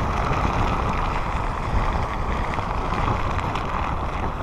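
Typhoon wind blowing hard against a phone's microphone: a steady, low wind noise with no let-up.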